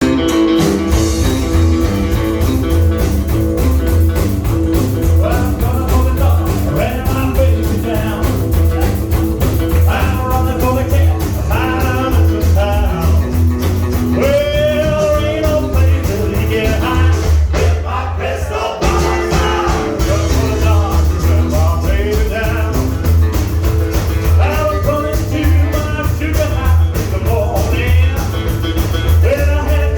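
Rockabilly band playing a rock and roll song with singing over a driving bass beat. The music thins briefly about two-thirds of the way through, then carries on.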